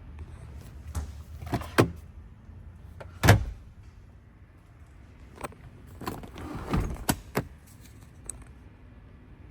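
A string of sharp clicks and knocks, the loudest about three seconds in, with a low steady hum fading out during the first two seconds.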